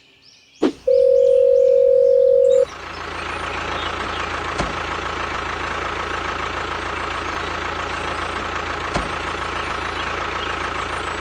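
A click, then a loud steady beep-like tone for about two seconds that cuts off suddenly. After it a small motor runs steadily with a high whine and a low hum.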